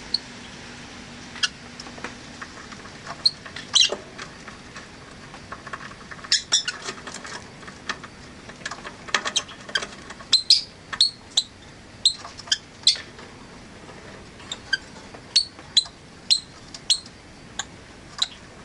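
Rosy-faced lovebirds chirping: short, sharp, high calls, scattered at first and then coming thick and fast from about six seconds in.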